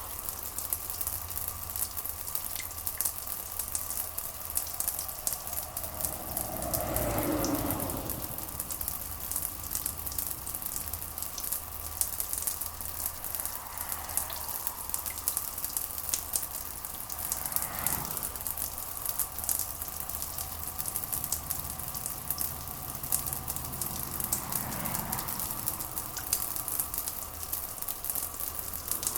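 Steady rain with a dense crackling patter over a constant low rumble; a few soft swells rise and fade, the fullest about seven seconds in.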